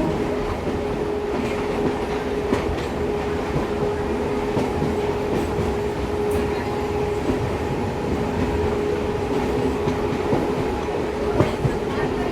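Indian Railways passenger train running along the track: a steady rumble with a faint constant hum and occasional sharp clicks of wheels crossing rail joints.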